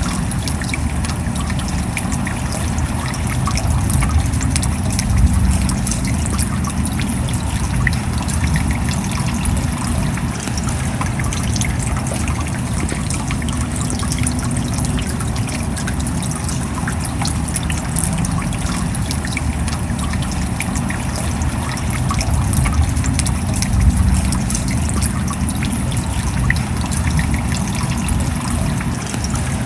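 Steady rain: a dense patter of small drops over a low rumble of falling water, swelling slightly twice, about five seconds in and again about twenty-four seconds in.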